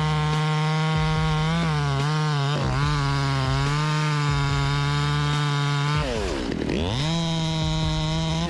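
Two-stroke chainsaw running at high revs while cutting wood, its pitch wavering slightly. About six seconds in the revs drop sharply and then climb back up.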